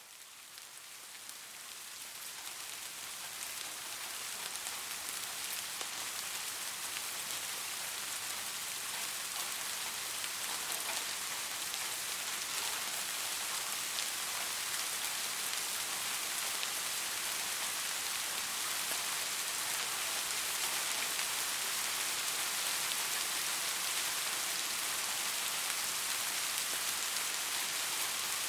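Steady rain falling, a dense even hiss flecked with the ticks of single drops. It fades in over the first few seconds and then holds level.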